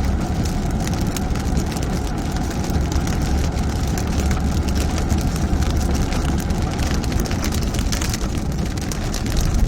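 Heavy rain hitting a car's roof and windscreen, heard from inside the cabin over the steady low rumble of the car driving.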